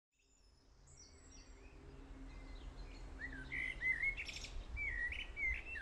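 Birdsong fading in from silence: several small birds chirping and warbling, with repeated short notes that rise and fall.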